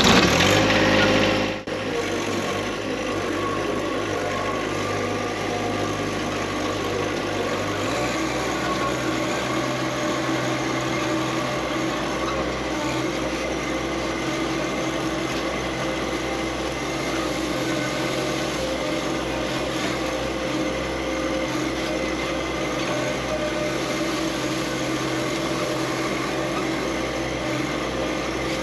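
Small tractor engine running steadily, with its low note shifting about eight seconds in.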